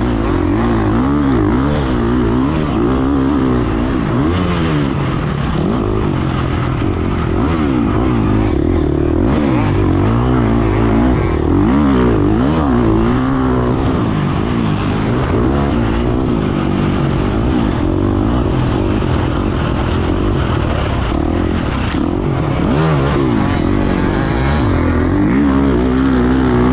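Motocross dirt bike engine revving hard and constantly, its pitch rising and falling every second or so as the rider works the throttle and shifts around the track.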